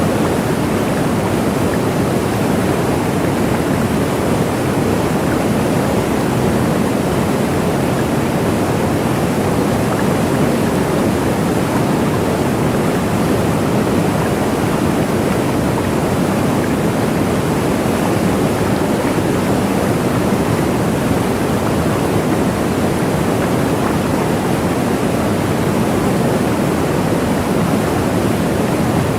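Waterfall: a constant, full rush of falling water, steady and unchanging, weighted toward the low and middle pitches.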